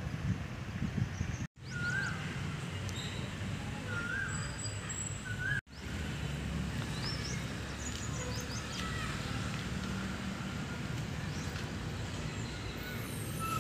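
Outdoor ambience of birds calling over a steady low rumble. Several short whistled notes rise and fall, repeated a few times, with scattered high chirps. The sound cuts out completely twice, briefly, in the first half.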